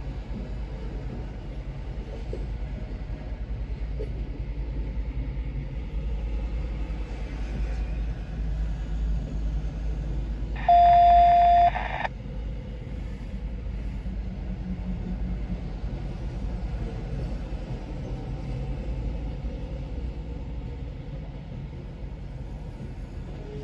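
Loaded coal hopper cars of a freight train rolling slowly past with a steady low rumble, heard from inside a car. About halfway through, a single loud beep lasts about a second.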